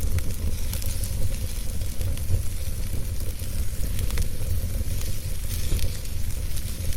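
Wood fire burning in a fireplace: a steady low roar of the flames with hiss and scattered crackling, and sharper pops near the start and about four seconds in.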